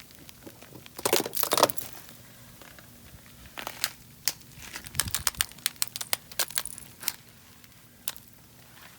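Crunching and crackling of ice: clusters of sharp crisp clicks about a second in, again from about four to seven seconds in, and once near the end.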